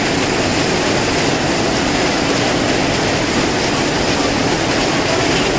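Strong wind with heavy rain in a storm: a loud, steady rush of noise, with the wind buffeting the microphone as a flickering low rumble.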